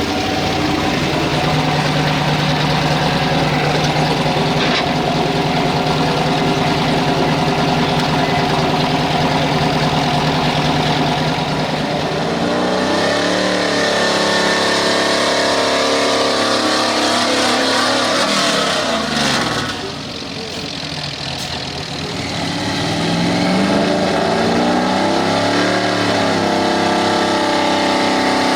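Gas-engined street stock pulling truck running at high, steady revs, then the revs wind down with falling pitch about 19–20 seconds in and the sound dips, before the engine revs back up and wavers toward the end.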